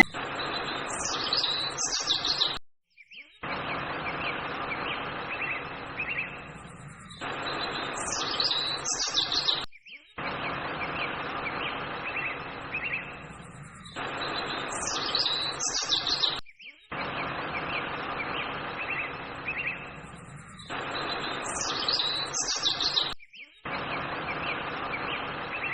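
Small birds chirping in quick falling calls over a steady hiss. The same few-second stretch repeats about every seven seconds, with a brief cut to silence between repeats, like a looped birdsong recording.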